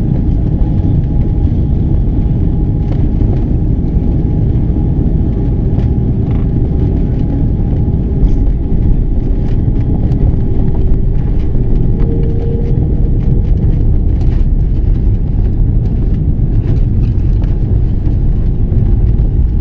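Cabin noise inside an Airbus A330-300 during landing: a loud, steady low rumble of engines and airflow, with a steady hum and scattered light rattles and clicks.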